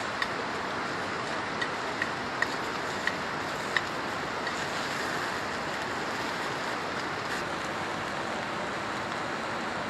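Red shrimp grilling, a steady sizzling hiss with sharp crackling pops every half-second or so in the first four seconds, then fewer.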